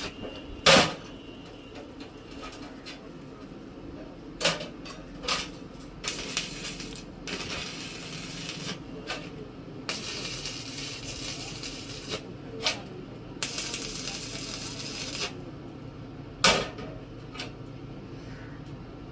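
Scattered clanks and knocks of metal being handled in a welding workshop: a few sharp strikes that ring briefly, the loudest about half a second in and again near the end, between quieter clicks.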